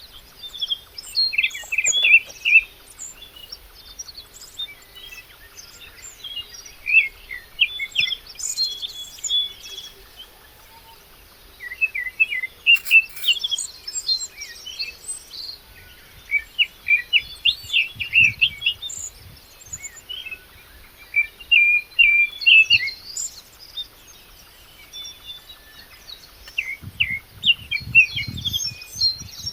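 Small birds chirping and twittering in repeated clusters of short high notes, with a few low thumps near the end.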